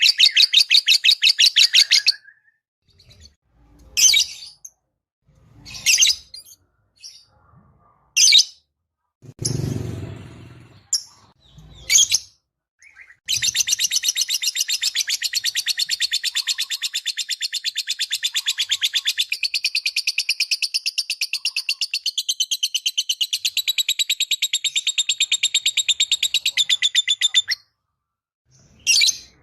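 Lovebird chattering: a fast run of shrill chirps, then single sharp calls a couple of seconds apart, then a long unbroken chattering trill of about fourteen seconds starting about halfway through.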